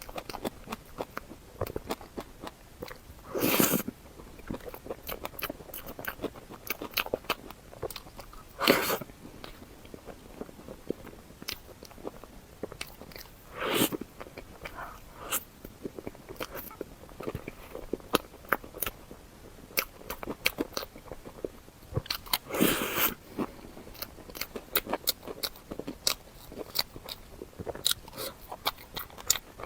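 Close-miked eating: four loud crunchy bites spaced several seconds apart, with quick small chewing clicks in between.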